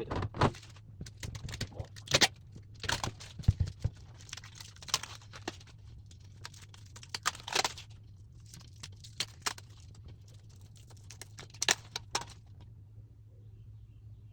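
Handling noise from unpacking a new fridge freezer: an irregular string of clicks, knocks and rustles of plastic parts and packaging, which dies away about twelve seconds in, over a steady low hum.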